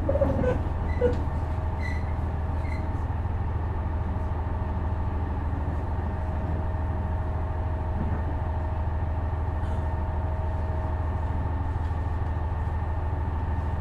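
Inside a KiHa 126 series diesel railcar: the diesel engine gives a steady low hum. A few short squeals and clicks come about a second in.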